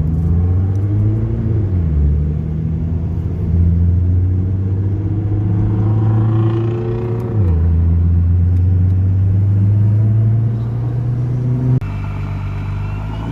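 Car engine running under way, its pitch climbing and then dropping sharply twice as it shifts up a gear, with steady running between.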